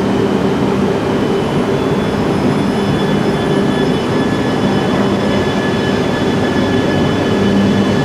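Tohoku Shinkansen train running past at speed: a loud, steady rushing noise, with a faint high whine coming in about two seconds in.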